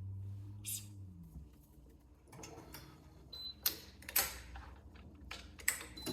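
Irregular sharp clicks and ticks from badminton racquet restringing on a stringing machine, over a low hum that fades out about a second in.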